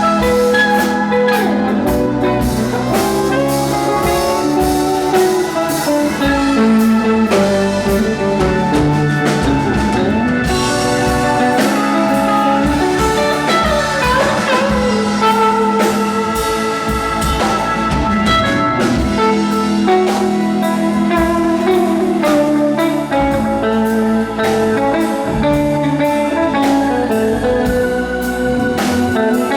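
Live band playing an instrumental passage: a guitar lead with bending notes over bass and drum kit.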